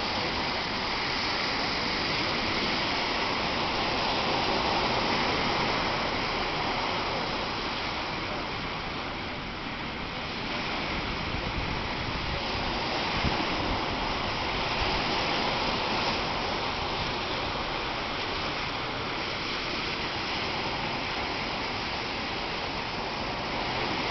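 Ocean waves washing on the shore: a steady rush of surf that slowly swells and eases.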